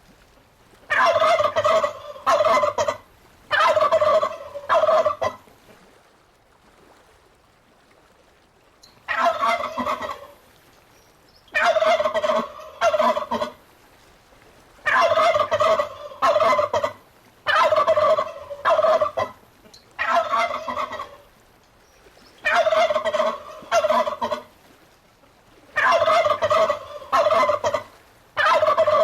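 Turkeys gobbling: loud rattling gobbles about a second long, coming in quick runs one after another, with a pause of a few seconds early on.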